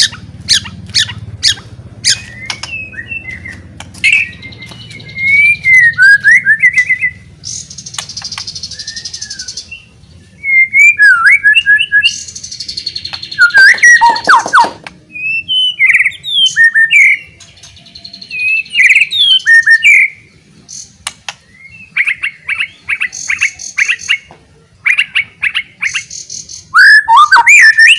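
White-rumped shama (murai batu) in loud full song: a long, varied string of whistled phrases, harsh buzzy notes and fast runs of repeated chips, with fast runs near the end. It is a loud provoking song of the kind that rouses rival shamas to sing and fight.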